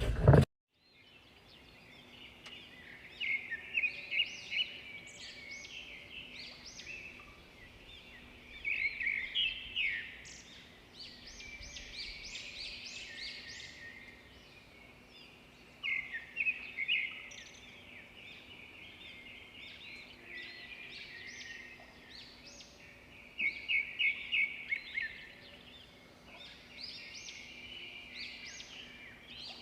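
Songbirds singing: repeated high-pitched phrases of quick chirps and rapid trills, coming in groups a second or two long every few seconds.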